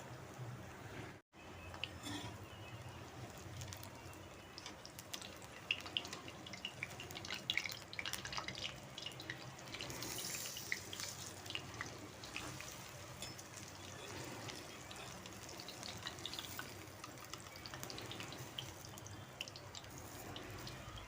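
Spoonfuls of grated raw-potato and onion batter frying in hot oil in a kadhai: a steady sizzle with many sharp little crackles and pops, broken by a brief gap about a second in.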